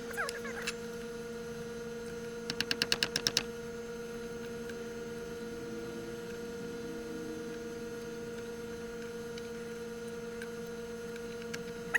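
A steady electrical hum, with a quick run of about nine sharp clicks about two and a half seconds in.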